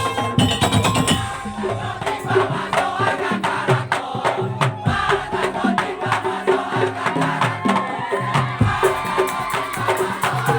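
Madurese daul (tong-tong) ensemble playing: wooden slit drums and other percussion beat a steady rhythm under a pitched melody.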